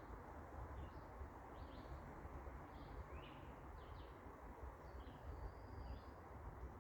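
Songbirds chirping faintly, a run of short separate calls with an occasional brief thin whistle, over a steady low background hiss.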